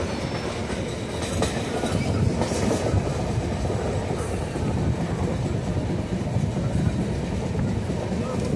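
Steady low rumble of a moving vehicle, with a few faint clicks and rattles.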